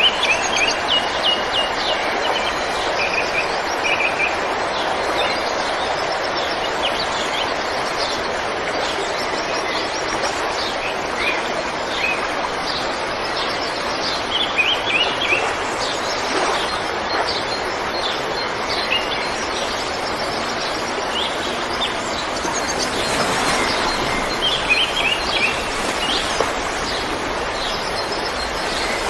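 River water flowing in a steady rush, with small birds chirping in short repeated bursts over it.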